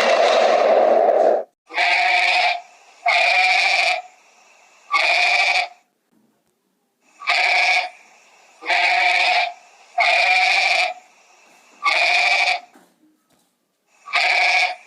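A goat bleating over and over: about eight separate bleats, each under a second long, coming every second or two with short pauses between. Before the bleats begin, a different loud continuous sound cuts off about a second and a half in.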